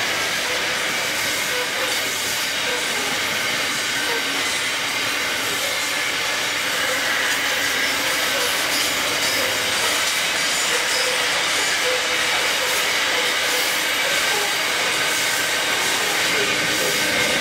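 Grain hopper wagons of a freight train rolling past: a steady noise and hiss of steel wheels running on the rails, growing a little louder about halfway through.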